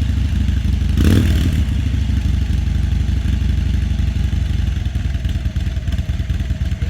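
2016 Harley-Davidson Ultra Glide's V-twin engine running just after start-up, briefly louder about a second in, then settling into a steady pulsing idle.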